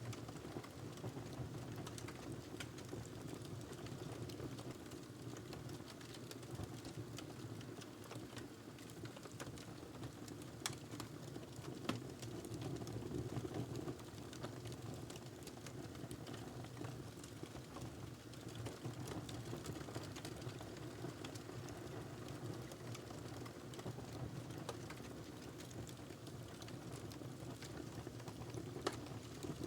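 Wood fire burning in a fireplace: a steady low rush of flames with scattered sharp crackles and pops, a louder pop about twelve seconds in and another near the end.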